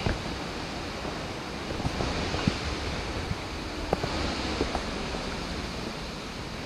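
Steady rushing of a nearby waterfall and stream, with a few faint knocks of footsteps on steps.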